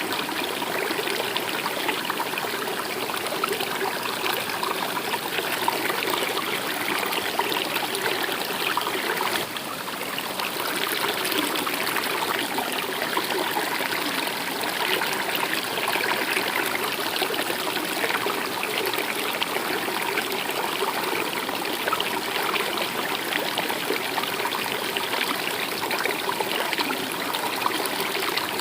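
Stream water running and trickling steadily, a continuous rushing and splashing.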